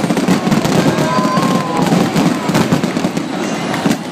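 Aerial fireworks going off in a dense, rapid crackle of small pops, with a few louder bangs near the end.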